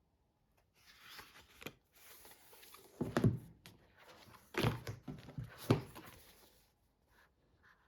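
Rustling handling noise followed by three dull thumps, as of things being set down or knocked.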